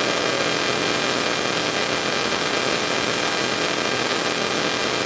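Steady, even hiss with a faint steady hum over it, unchanging throughout.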